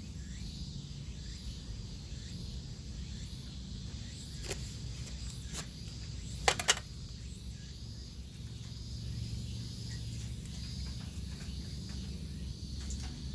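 Insects chirping in a steady, even rhythm over a low background rumble. A few sharp clicks fall in the middle, the loudest a quick double click about six and a half seconds in.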